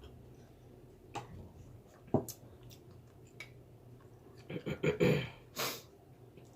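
Close-up eating sounds: a few sharp clicks and taps, with soft chewing and mouth noises. About four and a half seconds in comes a short cluster of louder mouth sounds, then a brief breathy burst.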